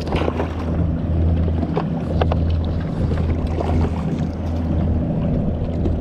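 Wind rumbling on the microphone and water against a kayak hull, with scattered small clicks and splashes.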